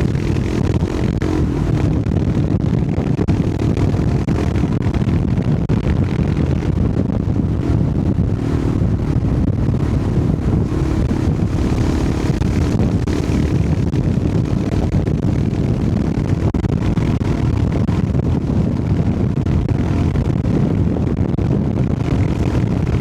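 Royal Enfield Himalayan 411's air-cooled single-cylinder engine running steadily as the motorcycle rides along.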